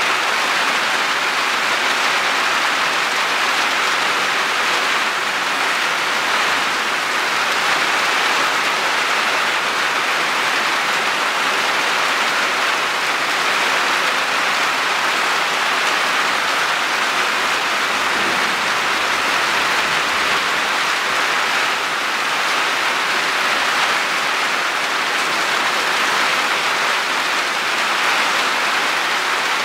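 Heavy downpour: a steady, even hiss of rain falling.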